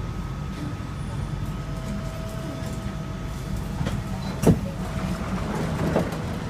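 SMRT C151A train standing at the platform with its doors open: a steady rumble and hum from its running equipment, with a sharp knock about four and a half seconds in and a smaller one about a second later.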